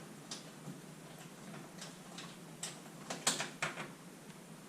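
Light clicks from hand tools working on the muffler bolts, coming unevenly about two a second, over a low steady hum.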